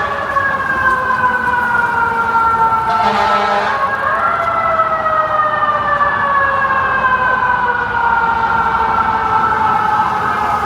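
Emergency vehicle siren wailing loudly, its pitch sliding slowly down, leaping back up about four seconds in, then sliding slowly down again.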